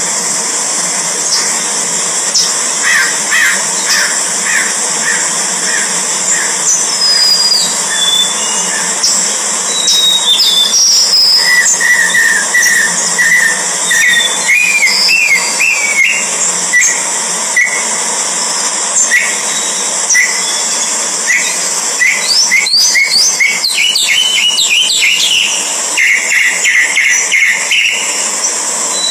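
Orange-headed thrushes chirping and whistling at the nest: runs of short, quickly repeated chirps, with scattered higher whistled notes that slide in pitch, over a steady high hiss.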